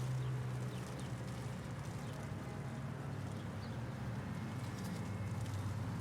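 City traffic ambience: a steady low rumble of idling and passing vehicles, with scattered light ticks of hail.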